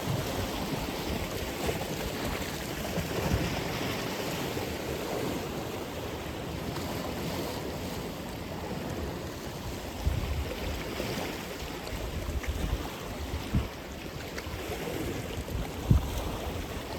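Atlantic Ocean surf, waves washing and breaking without pause. A few short low thumps come through from about ten seconds in.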